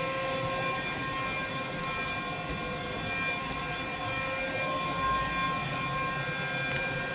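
Steady machine hum with a high, even whine from running workshop machinery, with no cutting strokes.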